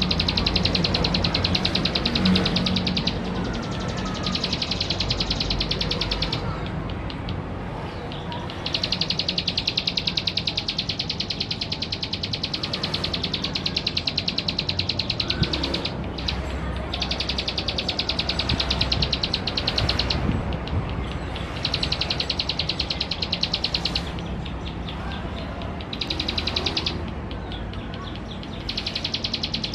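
Male ciblek sawah (plain prinia) singing: bouts of a very fast, even trill lasting a few seconds each, broken by short pauses, over a steady low rumble.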